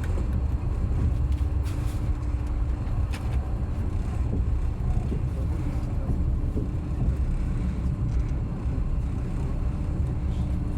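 Passenger train running along the line: a steady low rumble of wheels on rails, with a constant hum and a few faint clicks.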